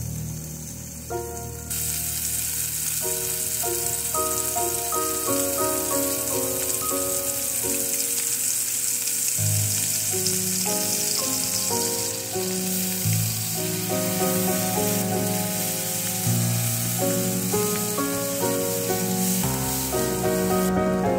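Chicken and vegetables frying in oil in a nonstick wok, sizzling steadily from about two seconds in, with background music playing a melody over a bass line.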